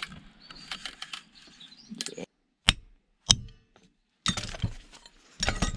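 Sharp metal knocks and clinks as a metal part is worked loose and split away from a scrap assembly by hand. There are two single hard hits about half a second apart in the middle, then a quicker cluster of knocks and rattles near the end.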